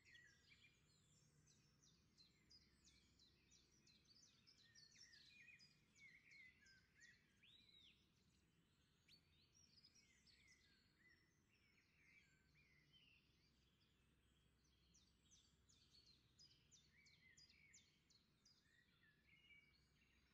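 Faint birdsong: several birds chirping and trilling in quick runs of notes, over a faint low hum.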